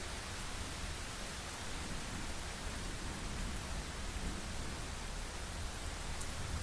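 Steady heavy rain, an even hiss of falling water with a low rumble underneath.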